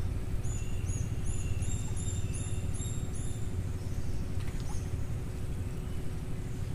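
A small bird gives a quick series of high, repeated chirps, about three a second, for roughly three seconds, then a couple more single chirps. Under it runs a steady low rumble with a constant hum.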